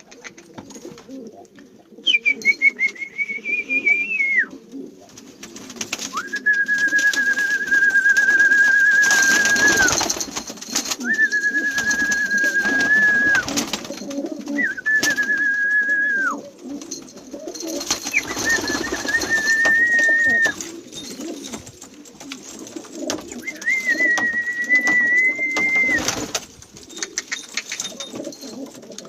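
Domestic pigeons cooing, with six long, steady, high whistled notes over them, each held two to four seconds.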